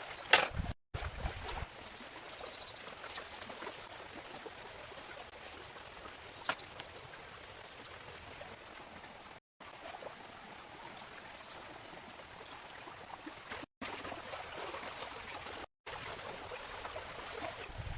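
Steady high-pitched drone of insects in woodland. A sharp knock comes shortly after the start and a faint tick about six seconds in, and the sound drops out to silence for a moment four times.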